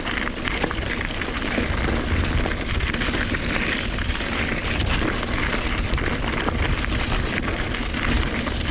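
Wind buffeting the camera microphone: a loud, steady rumble with fine rattling mixed in.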